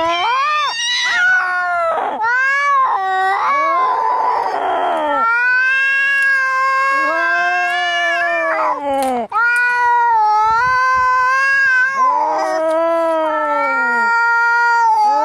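Domestic cats fighting: long, drawn-out yowls and caterwauls that rise and fall in pitch, one after another, with a rough hissing stretch about four seconds in.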